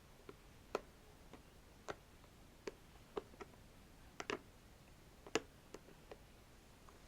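Spiky ball being handled and scratched, giving sparse, irregular light clicks and ticks, about one every half second to second, the loudest a little past halfway.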